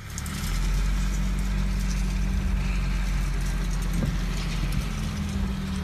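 Vehicle engine running steadily under a constant hiss, with a single light knock about four seconds in.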